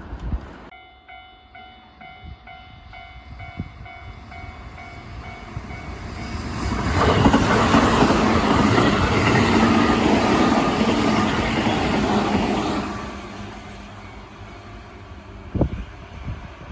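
Japanese level crossing warning bell clanging in rapid pulses for the first few seconds. Then a Keihan electric train passes over the crossing with a loud, steady rumble of wheels on rail for about six seconds before fading away. A single sharp knock comes near the end.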